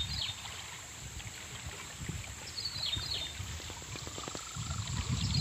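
A bird repeats a short, high chirping phrase three times, about every two and a half seconds. Under it runs a low, uneven rumble of wind on the microphone, with a truck engine in the distance.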